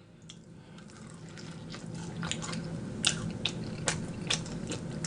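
A person chewing fried chicken wings close to the microphone, with wet smacking and crunchy clicks a few times a second.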